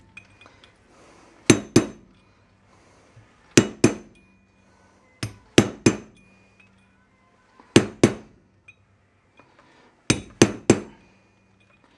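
Hammer blows on a steel drift, struck in quick pairs and threes about every two seconds, each with a short metallic ring. They are driving a seized old kingpin bushing out of a Datsun truck spindle, breaking it out in chunks.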